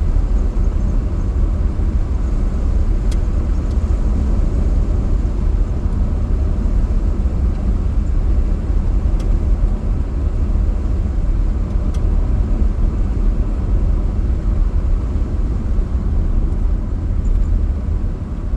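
1940 Nash driving along, heard from inside the cabin: a steady low engine and road rumble.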